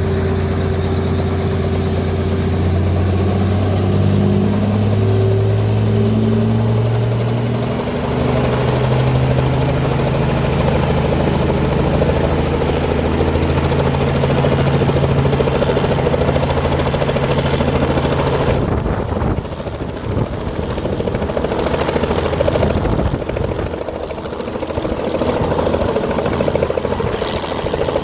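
Helicopter engine and rotor running, with a low hum whose pitch rises in steps over the first eight or nine seconds and then holds steady. About two-thirds of the way through, the hum gives way to a rougher rushing noise.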